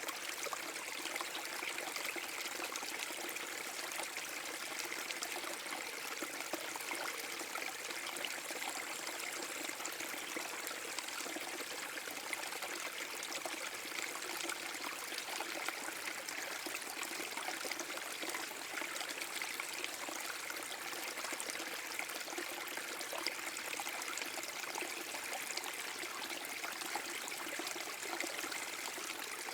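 Small forest brook spilling over a mini waterfall: a steady, unbroken rush and trickle of flowing water.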